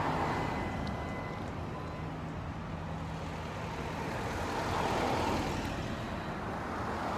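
Motor vehicles passing on a street: a steady traffic hum with a low engine drone, and a louder swell as a vehicle goes by about five seconds in.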